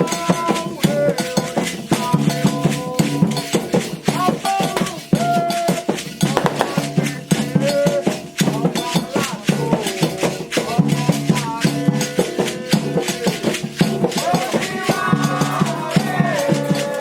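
Candomblé ritual music: hand drums and shaken rattles beating a fast, steady rhythm, with voices singing over it.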